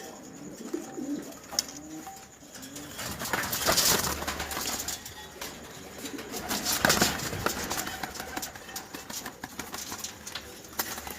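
Domestic pigeons cooing: low, curving coos in the first few seconds. Two louder noisy bursts come about four and seven seconds in.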